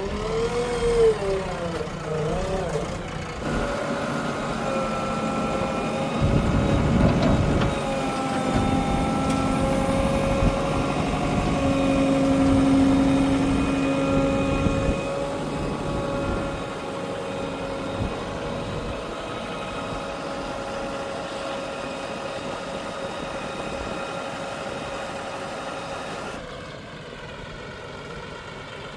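Heavy diesel engine running, its pitch wavering at first and then holding steady, with a louder spell of low rumble in the middle as it works under load. About 26 seconds in, the sound changes abruptly.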